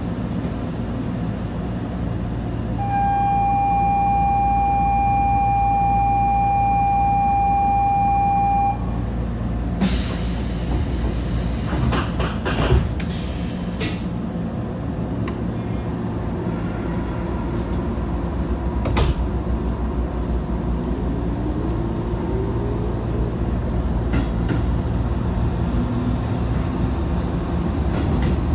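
Electric train at a station platform: a steady low rumble under a steady electronic signal tone that lasts about six seconds, then two loud hisses of air. A motor whine rises in pitch as the train pulls away and rolls past close by near the end.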